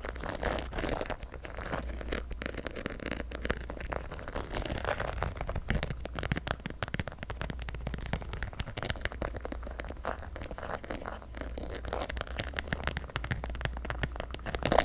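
Tapping and scratching on a textured Coach purse: a dense, continuous run of small clicks and rustling scratches.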